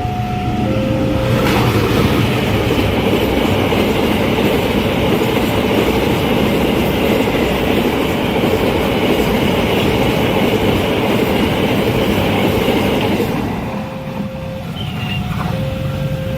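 A train passing over a level crossing: loud rushing wheel-and-rail noise with clickety-clack for about twelve seconds, falling away near the end. The crossing's electronic warning alarm sounds in alternating stepped tones at the start and again after the train has gone by.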